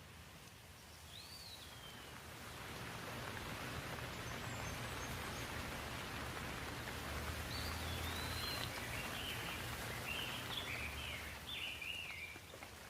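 Rain falling, growing louder over a few seconds and easing near the end, with a bird chirping briefly at the start and in a run of short chirps in the second half.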